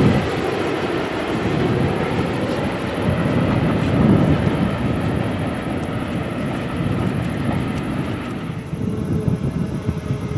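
A train running past: a loud, steady rumble of wheels on rail, swelling about four seconds in, with the higher hiss fading near the end.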